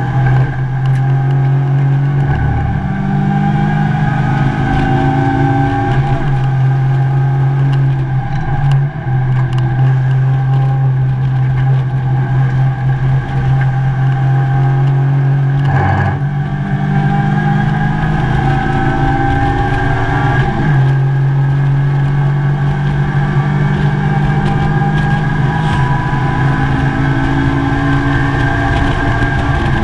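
Mazda MX-5 race car's four-cylinder engine, heard from inside the stripped cabin, running hard at speed. Its pitch climbs under acceleration and drops back sharply a few times as the revs fall.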